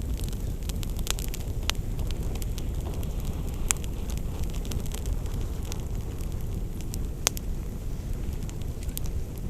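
Campfire crackling, with scattered sharp pops over a steady low rumble; the two loudest pops come a little over a third of the way in and about three-quarters through.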